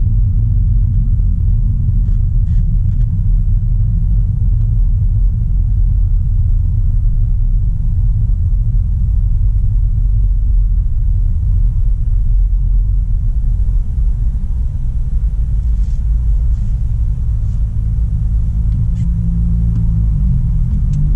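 Audi A3 Sportback's 1.4 TFSI turbocharged four-cylinder engine and tyre and road noise, a steady low rumble heard from the driver's seat while driving. Near the end the engine note rises as the car picks up revs.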